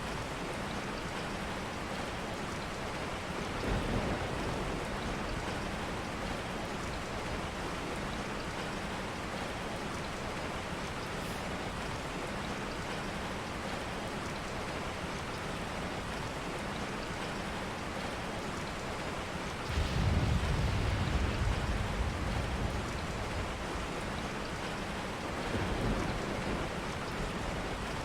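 Steady rain falling, an even hiss of drops, with low rumbles rising under it about four seconds in and again about twenty seconds in.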